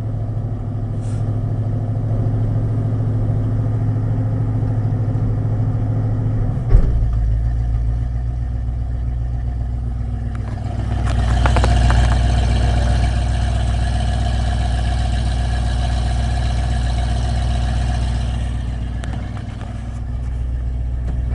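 1980 Ford F-100's 302 V8 running: a steady engine note, a sharp clunk about seven seconds in after which the note drops lower, then the engine runs louder for several seconds before easing off near the end. The engine is idling fast on a new two-barrel carburetor whose choke is not yet working right.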